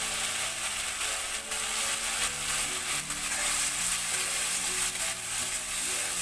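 Spice paste sizzling as it fries in a metal kadai, with a flat metal spatula stirring and scraping through it: the masala being fried down after turmeric is added.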